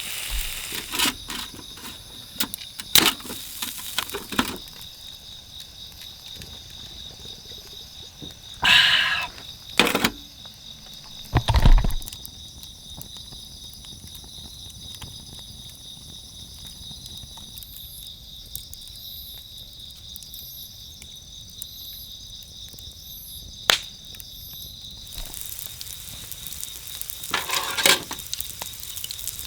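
Insects chirping steadily in a continuous high-pitched chorus, broken by scattered clicks and a few louder knocks, one of them a heavy thump about a third of the way through.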